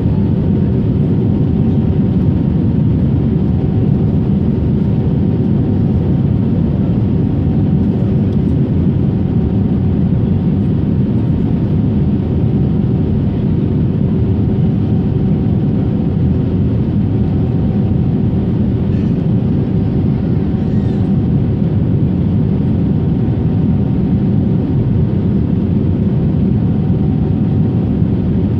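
Steady airliner cabin noise heard from inside the cabin: a constant low drone of engines and airflow with a few faint steady hums on top.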